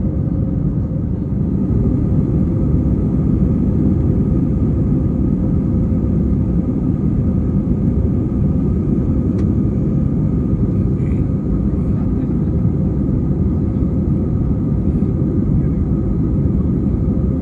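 Steady cabin noise of an Airbus A320 under way, a deep even rumble of engines and airflow with a faint steady hum on top.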